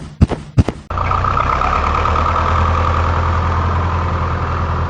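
A few sharp clicks, then an engine starts running steadily about a second in, with a deep low hum and a held higher tone over it.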